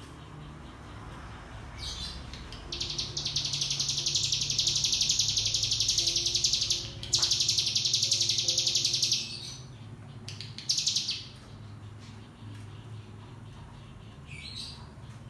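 Cigun (ciblek gunung, a prinia) singing a long, very rapid, high trill, the 'ngebren', lasting about six seconds with a brief break in the middle. It is framed by short high calls before and after.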